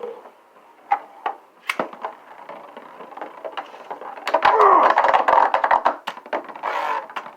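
3D-printed plastic Beyblade tops clashing in a stadium: scattered sharp cracks and knocks, then a dense, loud run of rapid hits from about four to six seconds in, with a shorter burst near the end.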